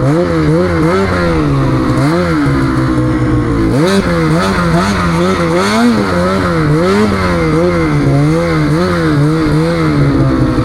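Snowmobile engine under throttle, revving up and down over and over, about twice a second, with a steadier stretch in the middle before it climbs again.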